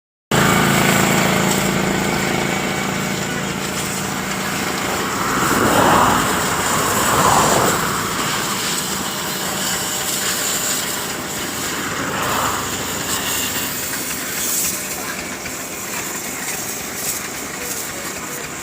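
Water spraying from a hose while a tractor is washed, over a steady engine hum that fades after the first several seconds. The spray swells louder around six and seven seconds in, and again near twelve seconds.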